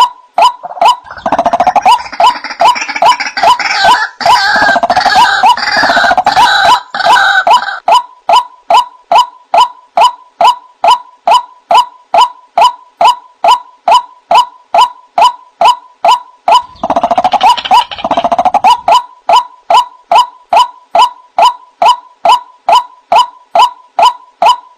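White-breasted waterhen (ruak-ruak) calls played as a lure: a steady, rapid run of short repeated notes, about two to three a second. Harsher, noisier squawking joins in twice, for several seconds early on and briefly in the second half.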